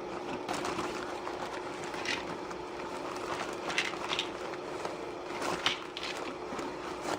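A pot of water heating over a homemade soda-can alcohol stove, close to the boil but not yet at a hard boil: a steady hiss with a faint steady tone and a few irregular short pops and crackles.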